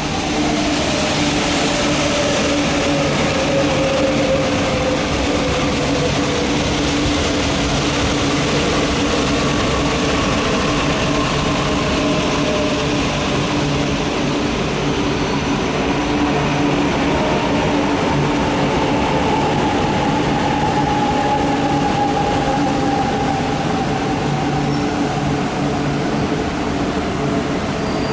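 E4 series Max double-decker Shinkansen train running slowly past, a steady rolling rumble and hum with a motor whine that glides slowly down in pitch as the train slows.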